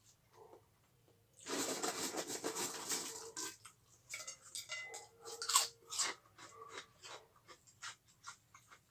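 Close-up chewing of crunchy food: a dense crunching starts about one and a half seconds in and lasts about two seconds, followed by irregular chewing clicks and mouth smacks.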